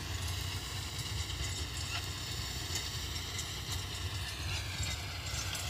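Kubota MU5502 tractor's four-cylinder diesel engine running steadily while driving a Lemken rotary tiller, a low rhythmic chug with a faint high whine that drops slightly in pitch about five seconds in.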